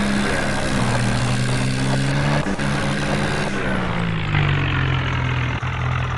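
HMT tractor's diesel engine running steadily, its note dropping to a lower engine speed about four seconds in.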